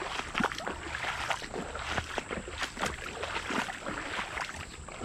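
Irregular splashing and sloshing of shallow creek water.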